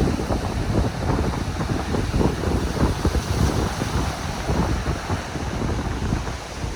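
Strong wind buffeting the microphone in rapid low gusts, with the wash of surf underneath.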